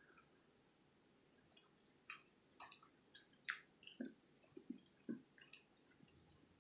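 Faint, close-up chewing of soft fettuccine Alfredo: scattered small wet mouth clicks and smacks from about two seconds in.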